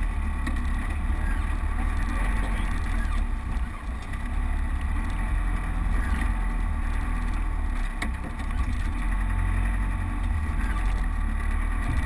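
Land Rover Defender engine running steadily as it drives slowly along a rough green lane, heard from inside the cab as a low rumble, with a few faint knocks.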